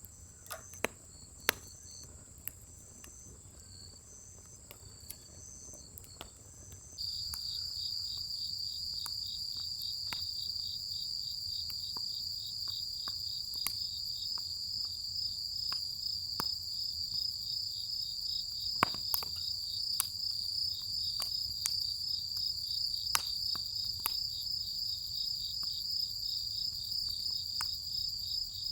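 Insects chirping in a steady high pulse, growing louder about seven seconds in, over scattered sharp pops and crackles of firewood burning in a fire pit.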